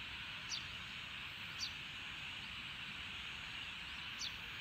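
Outdoor field ambience: a steady high hiss, with a bird giving a short, high, falling call three times.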